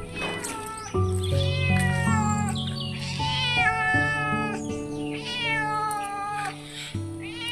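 Domestic cat meowing over and over, each meow falling in pitch, over background music with held chords.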